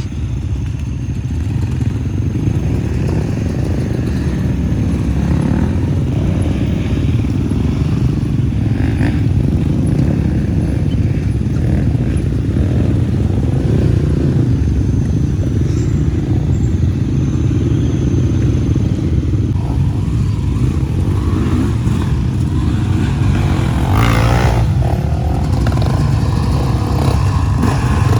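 Motorcycle running steadily while being ridden, a continuous low rumble, with a brief wavering sound about three quarters of the way through.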